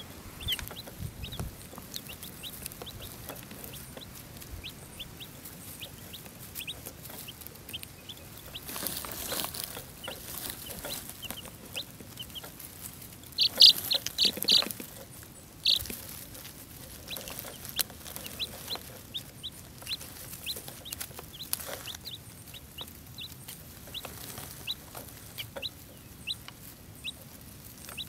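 Baby chicks peeping: many short, high peeps scattered through the whole stretch, with a run of louder peeps around the middle.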